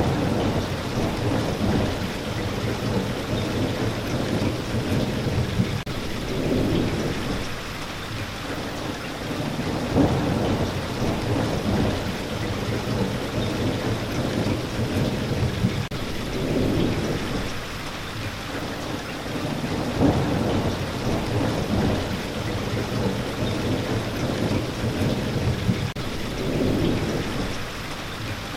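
Steady rain falling, with low thunder rumbles that swell and fade every few seconds.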